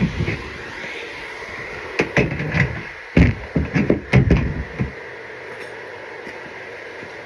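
Irregular knocks and clattering bumps of objects being handled: a few near the start, a cluster about two seconds in, and a heavier run from about three to five seconds in, then they stop.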